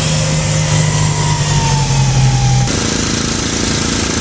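Small snowblower engine running steadily; its pitch dips slightly about halfway, and the sound changes abruptly a little before the end.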